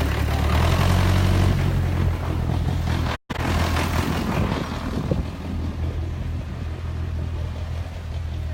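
Car engine running with a steady low hum, louder during the first two seconds, then easing off; the sound cuts out for an instant about three seconds in.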